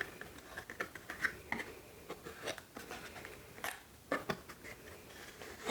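Small-object handling: scattered light clicks, taps and rustles from the keyboard's accessory box and the spare Nimbus V3 linear switches inside it, with a few sharper clicks about a second and a half in and just after four seconds.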